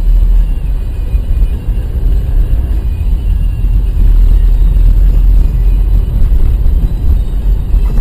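Loud, steady low rumble of a car driving, road and engine noise heard from inside the cabin.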